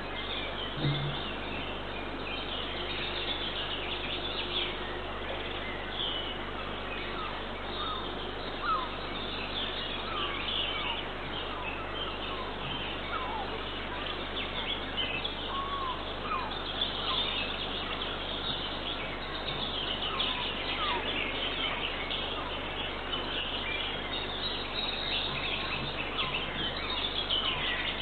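Small songbirds chirping and singing in a continuous chorus over a steady hiss, heard through a nest camera's microphone.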